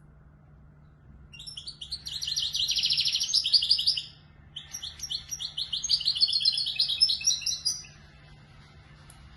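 European goldfinch singing in the Moroccan Marrakchi style: two fast, trilling phrases, the first starting about a second in and the second following a short break at about four seconds.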